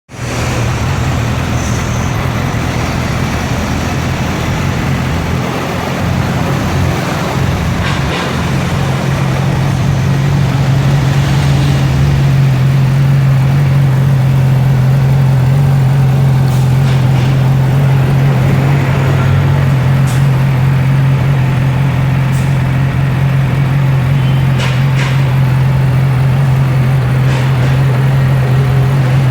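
2009 Yamaha YZF-R6's 599 cc inline-four engine idling steadily, with a few faint clicks over it.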